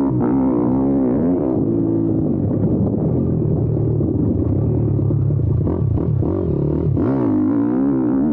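YCF Bigy 190 pit bike's single-cylinder four-stroke engine ridden hard, the revs rising and falling with the throttle. There is a lower, steadier stretch in the middle before it revs up and down again near the end.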